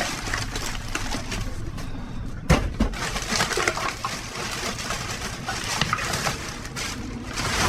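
Rummaging through office trash in a dumpster: irregular rustling and crinkling of bags, paper and plastic, with one sharp knock about two and a half seconds in.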